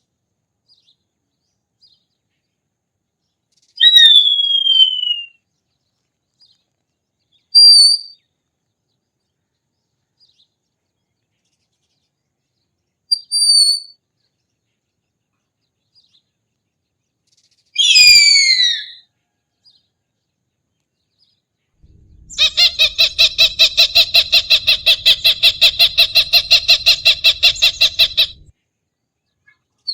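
Recorded hawk calls: a high screech falling in pitch, two short sharp calls, then a second longer falling screech. Near the end comes a rapid, even series of calls, about six a second, lasting some six seconds.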